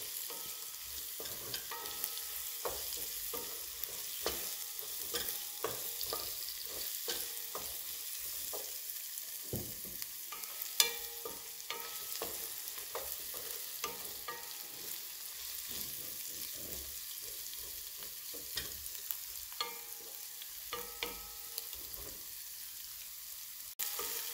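Diced carrots and potatoes frying with onions in a granite-coated pan, with a steady sizzle, while a wooden spatula stirs them with frequent scrapes and taps against the pan. One sharper knock comes about eleven seconds in.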